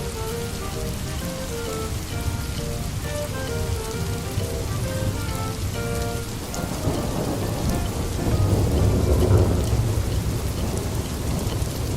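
Steady rain with a roll of thunder that builds from about halfway through and is loudest near the three-quarter mark.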